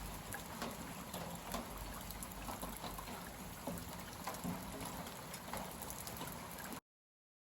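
Moderate rain falling steadily, with the patter of individual drops. The sound cuts off abruptly near the end.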